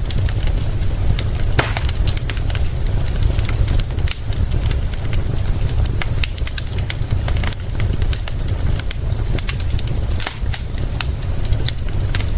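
Wood fire crackling, with irregular sharp pops and snaps, over a steady low rumble.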